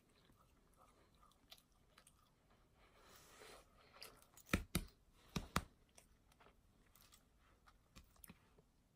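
Close-miked chewing and mouth sounds of someone eating fast food, quiet overall, with two pairs of sharp crunching clicks about halfway through.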